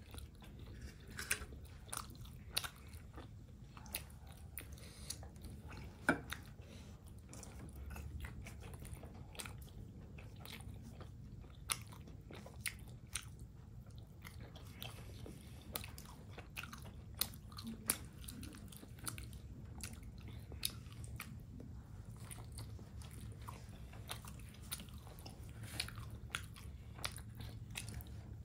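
Close-miked chewing and biting of soft steamed chicken momos, with small wet mouth clicks and smacks coming irregularly, over a low steady hum.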